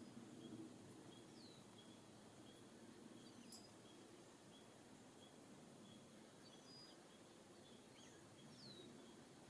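Faint outdoor ambience with distant small birds calling: a short chirp repeated about twice a second, and a couple of brief falling whistles.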